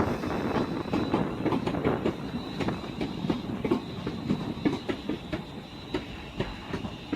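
Class 350 electric multiple unit running slowly into the platform, its wheels clicking rhythmically over rail joints and points, with a thin steady high whine. The sound gradually fades as the train slows to a stop.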